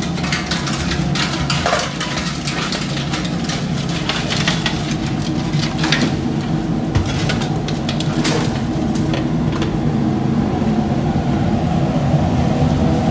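Herb fritters being tipped into a paper-lined steel bowl and deep-frying in hot oil, heard as scattered crackles and clatters over a steady hum.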